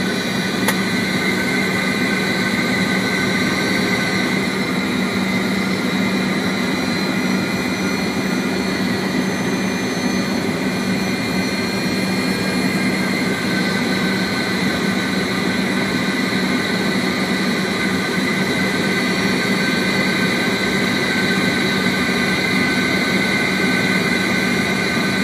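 Steady cockpit noise of a Fokker 100 airliner on final approach: rushing airflow and its Rolls-Royce Tay turbofans, with a constant low hum and higher steady whines.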